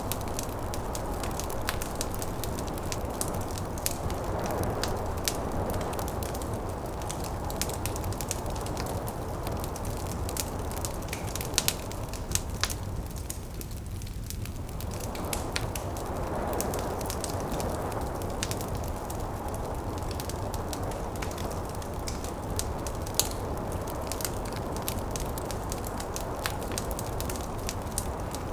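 Wood fire crackling, with frequent sharp pops and snaps, over a steady rushing background of snowstorm wind that eases for a moment about halfway and then swells back.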